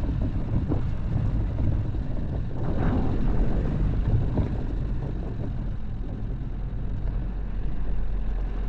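Dacia Duster driving, with a steady low engine and road rumble.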